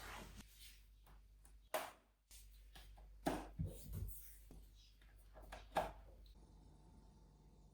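Household items being handled during cleaning: a handful of light knocks and clicks, spaced irregularly, with soft rustling between them.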